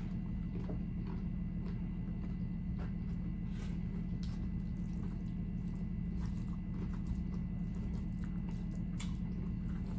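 Close-miked chewing of a mouthful of rice, steak and corn, with small wet mouth clicks and smacks scattered through. A fork scoops and scrapes in the bowl. A steady low hum runs underneath.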